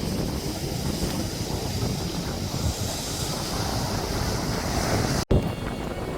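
Steady, loud rushing noise, heaviest in the low end, cut off sharply about five seconds in.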